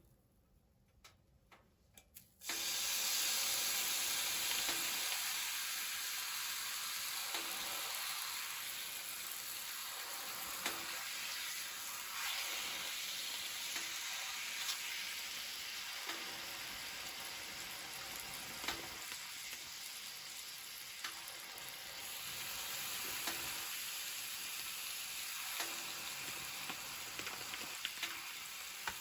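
Food frying in a hot pan: after a few faint clicks, a sizzle starts suddenly about two and a half seconds in and keeps going steadily, with small pops and crackles throughout.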